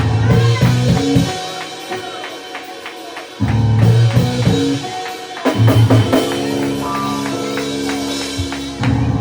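Live church band playing held low chords over drum kit hits. The chords break off near the middle and come back in several blocks.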